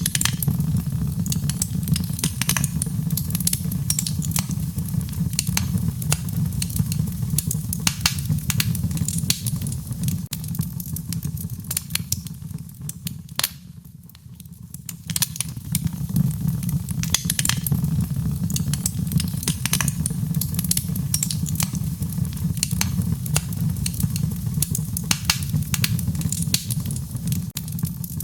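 Wood fire burning: a steady low rumble of the flames with frequent sharp crackles and pops of the burning wood. The fire briefly quietens about halfway through, then comes back up.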